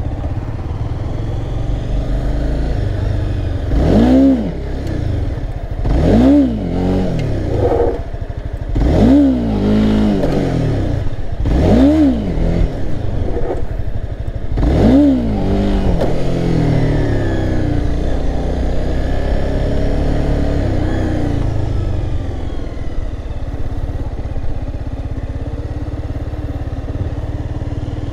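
Honda CBR300R's single-cylinder engine revved hard five times in about twelve seconds, each rev climbing and dropping back within about a second: throttle bursts for wheelie attempts. Afterwards it runs more evenly, with milder rises and falls as the bike rolls around the lot.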